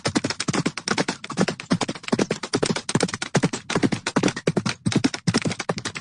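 Chickens clucking: a rapid, continuous run of short clucks, several a second.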